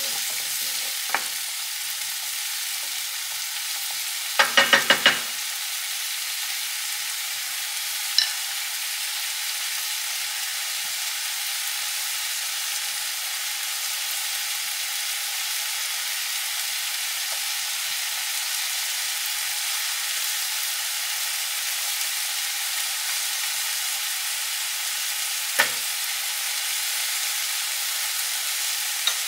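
Kimchi and green onion frying in oil in a pan, a steady sizzle, with a quick run of about five knocks about four seconds in and a few single clicks.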